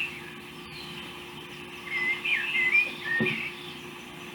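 A songbird singing short whistled, up-and-down chirping phrases, once at the start and again in a run about two seconds in, over a faint steady hum.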